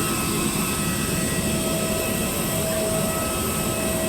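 Jet aircraft engine running steadily: a constant rush with several high, unchanging whining tones.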